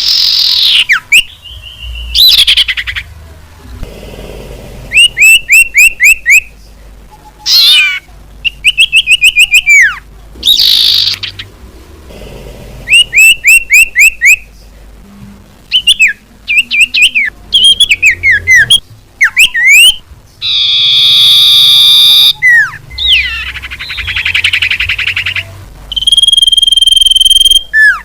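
Common iora (cipoh) lure calls: a loud, varied sequence of sharp whistles, rapid runs of repeated down-slurred notes and chattering trills, with short pauses between phrases.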